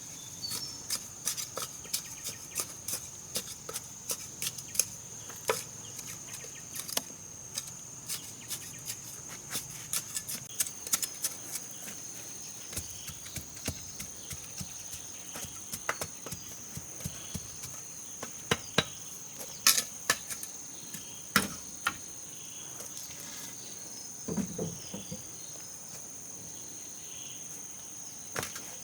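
Steady high-pitched drone of crickets or other insects, with many irregular sharp taps and knocks of hand tools working wood over it; the taps come thick and fast for the first dozen seconds, then more sparsely.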